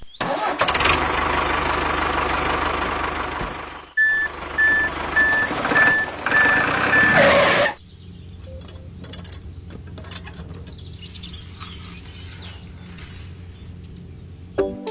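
Heavy vehicle engine noise with a reversing alarm beeping about twice a second for several seconds, cutting off near the middle. A quieter steady hum follows.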